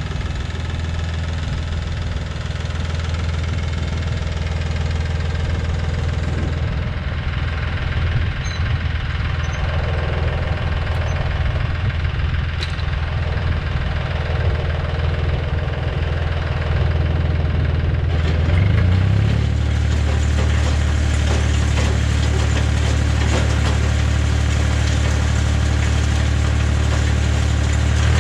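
Tractor engine running steadily; about two-thirds of the way through, its revs step up and it runs a little louder and higher at the raised speed.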